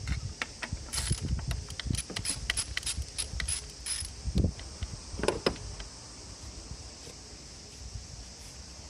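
Metal tools and parts being handled: a quick run of light clicks and clinks, a dull knock about four and a half seconds in, and a couple of ringing clinks just after five seconds, then only faint background.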